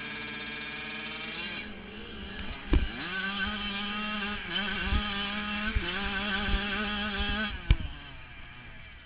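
Motocross dirt bike engines running on the track, revving up about three seconds in and dropping off near the end, with two sharp knocks, the first about three seconds in and the second near the end.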